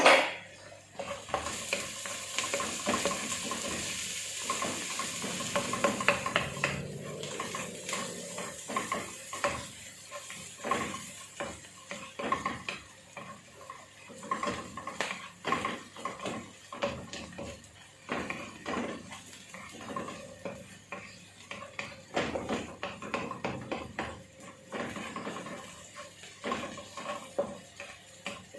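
Onions and garlic sautéing in a frying pan, sizzling while a utensil stirs and clicks against the pan. A sharp clank right at the start; the sizzle is strongest in the first several seconds, then the tapping and scraping of the stirring goes on irregularly.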